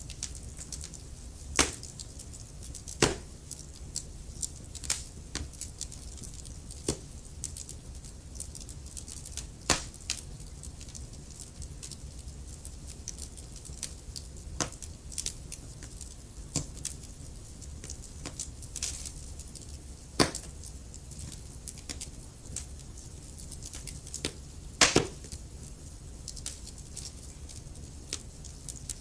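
Wood fire burning in a fireplace: logs crackling with irregular sharp pops over a low steady rumble of the flames, the loudest pops about a second and a half in, at three seconds, ten seconds, twenty seconds and near twenty-five seconds.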